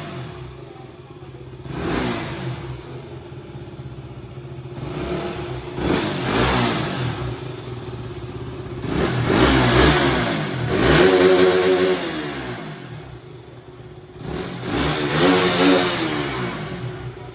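Motor vehicle engines swelling and fading about five times, over a steady engine hum.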